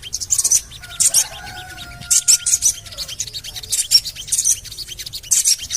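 Sogon bird calling: clusters of sharp, very high 'cret-cret' chirps repeating every second or so, with a long, drawn whistle about a second in.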